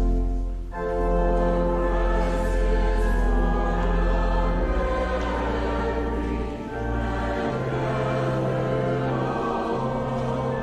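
Church choir singing slow held chords over sustained instrumental accompaniment, with a deep bass note underneath. The chords change every second or two.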